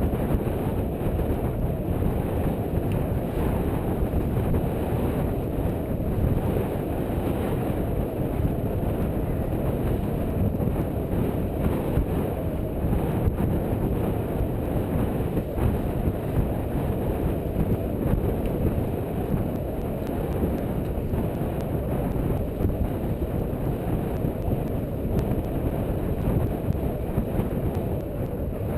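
Wind buffeting the microphone aboard a sailing boat: a steady low rumbling rush with no break.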